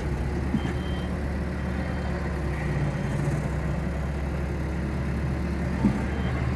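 Kobelco excavator's diesel engine running steadily with an even low hum, with no bog or stumble, after a clogged fuel screen was cleaned. A single light knock comes near the end.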